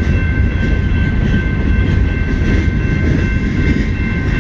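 CN freight train rolling by: a steady, loud rumble of locomotives and cars on the rails, with thin, steady high-pitched whining tones over it.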